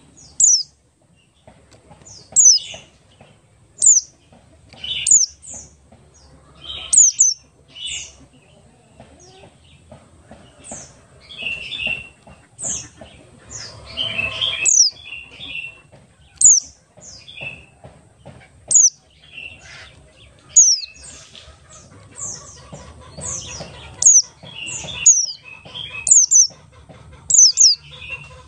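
White-eye (pleci buxtoni) singing: a run of sharp, very high notes that sweep downward, coming every second or so, mixed with lower chattering twitters.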